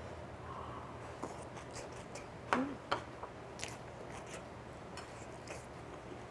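Close-miked chewing of a bite of spicy stir-fried chicken topped with pickled onion: scattered wet mouth clicks and crunches, the two loudest about two and a half and three seconds in.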